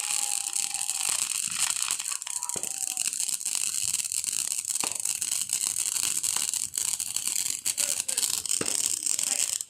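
Fireworks crackling and hissing: a steady high hiss thick with rapid tiny pops.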